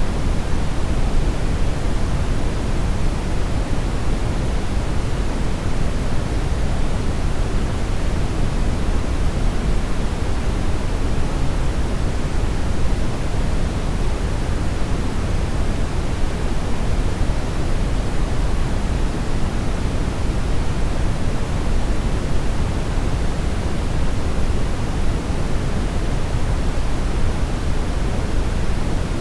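Brown noise: a steady, even rumbling hiss, strongest in the low end and falling off toward the highs, with no changes.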